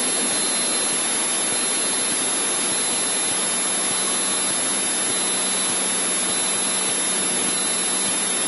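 Cessna 152 cabin noise on descent: the four-cylinder Lycoming engine and propeller running steadily at reduced power together with airflow, heard as an even hiss with a faint low hum underneath.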